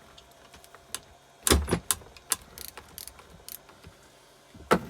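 Metal hand tools clinking and clunking against a motorcycle engine as it is worked on, with a series of sharp clicks, the loudest clunk about a second and a half in and another near the end.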